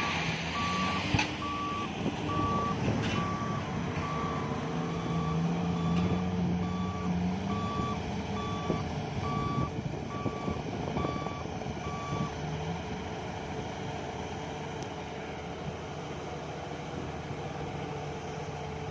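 Backup alarm beeping about once a second over heavy diesel engines running, during excavator loading of a dump truck; the beeping stops about twelve seconds in while the engines keep running.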